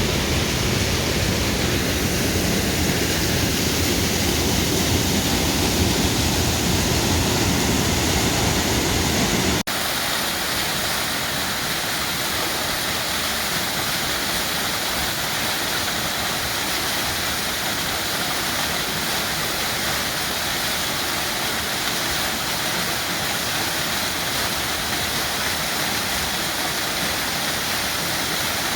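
Steady rushing of a forest waterfall. About ten seconds in it cuts abruptly to another stretch of falling water that has less low rumble and more hiss.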